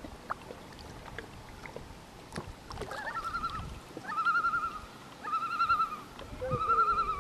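A bird calling: four wavering, trilled calls about a second apart, each under a second long, with scattered faint clicks before them.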